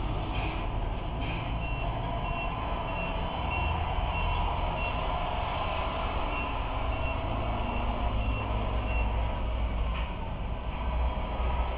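Reversing beeper of an RC Scania truck model, a high beep repeating about twice a second that pauses briefly midway and stops near the end, over a steady low rumble.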